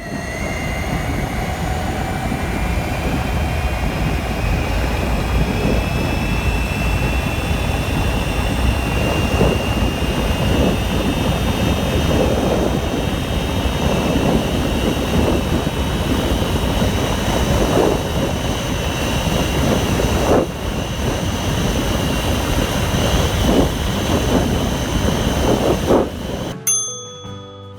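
Ather 450X electric scooter at full throttle: its motor whine rises in pitch over the first several seconds and then holds steady at speed, over heavy low wind rumble. About a second before the end the ride cuts off and a short chime-like tone sounds.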